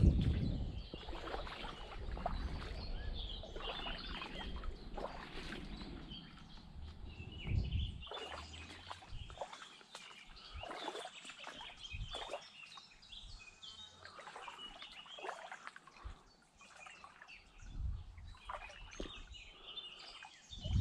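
Small birds chirping and singing in the trees across the river, many short calls throughout. A low rumble comes and goes a few times.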